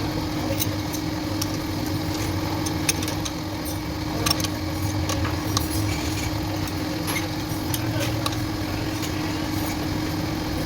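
Steady mechanical hum, engine-like, with many light clicks and clinks scattered through it.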